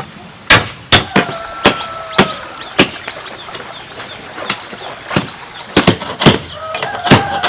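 Hammer blows on bamboo: a run of sharp knocks about two a second, a short pause, then another run of blows that comes faster near the end.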